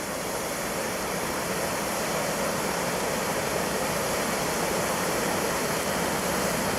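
Mountain stream rushing over rock: a steady, even rush of water.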